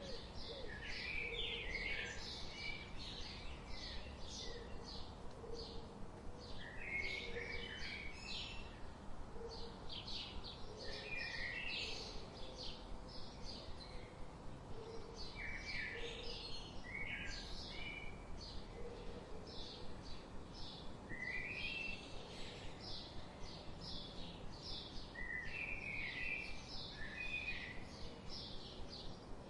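Small songbirds chirping and twittering without a break, with a louder song phrase recurring every few seconds over a faint steady hiss.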